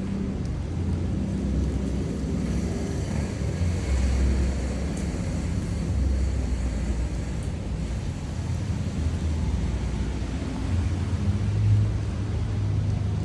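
Engine and road noise of a moving motor vehicle, heard from on board: a steady low rumble.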